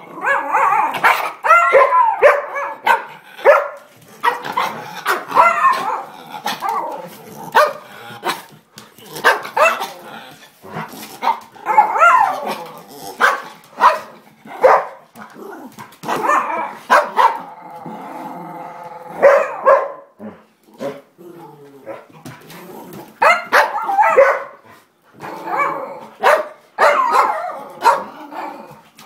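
Dogs barking and yipping again and again, with one longer drawn-out cry a little past halfway.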